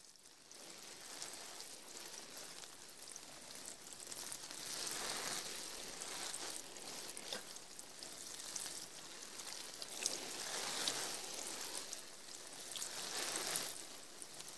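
Rain falling: a steady hiss dotted with small drop ticks, swelling over the first few seconds and then rising and falling gently.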